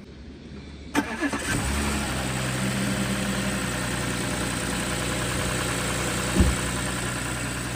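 Audi A6 V6 engine cranked and catching about a second in, then settling into a steady idle with a ticking 'da-da-da' that the owner is unsure is normal. A short sharp thump about six and a half seconds in.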